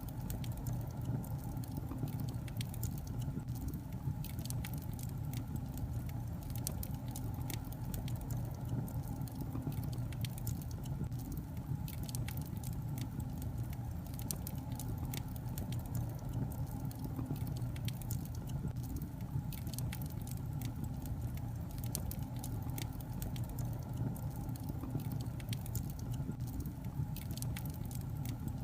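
Logs burning in a fireplace: frequent, irregular sharp crackles and pops over a steady low rumble.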